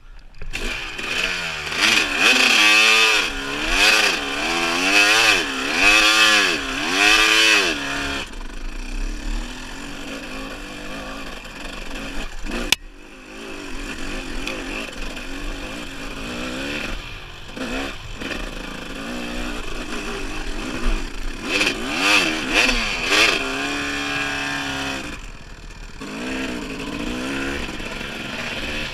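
Dirt bike engine under way, its revs rising and falling about once a second for the first several seconds, then running steadier, with another spell of quick rises and falls later on. A single sharp click about halfway through.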